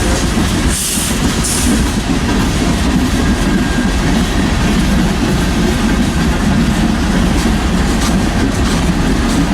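Norfolk Southern freight train of tank cars rolling past close by: a steady, loud rumble of wheels on rail, with two brief hisses about a second in.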